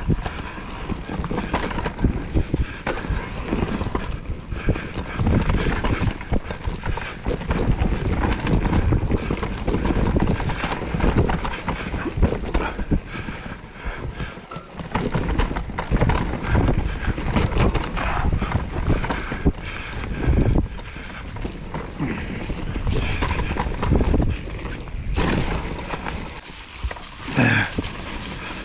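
Whyte E180S electric mountain bike riding over a rough woodland trail: tyres rolling on dirt with the bike knocking and rattling irregularly over bumps, and wind buffeting the microphone.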